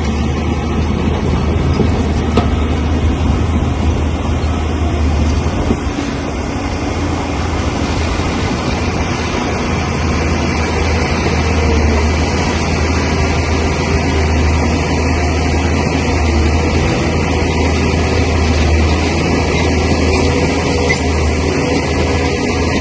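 Bulldozer's diesel engine running steadily at working load, a loud deep drone with mechanical noise over it.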